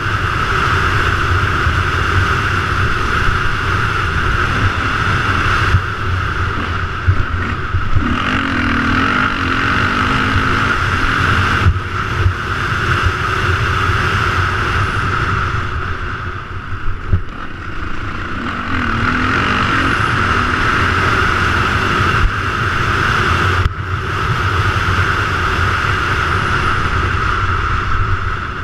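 An engine running steadily with a constant drone.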